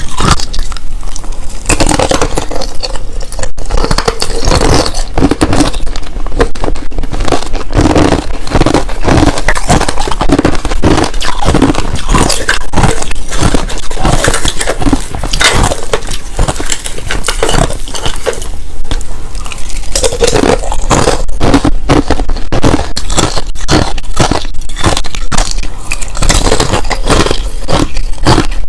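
Close-miked crunching and chewing of clear and powdery crushed ice, a dense run of irregular crackling bites and scrapes that continues without pause.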